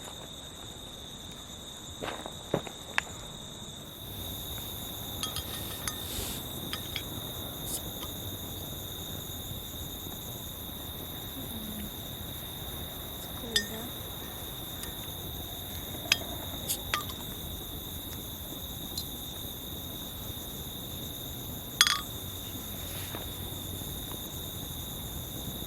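Insects calling steadily in one high-pitched tone, with scattered sharp clicks and knocks; the background noise grows a little louder about four seconds in.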